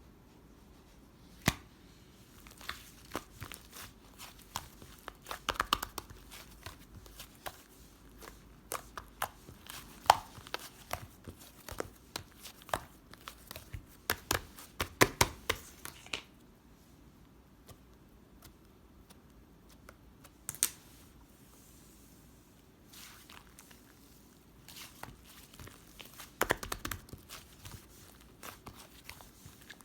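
Irregular crinkling and sharp clicking handling noises, coming in clusters with a quiet gap of a few seconds past the middle.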